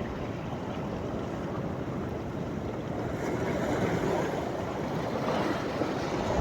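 Sea waves breaking and washing onto the beach: a steady surf noise that swells about halfway through and again near the end, with wind rumbling on the microphone.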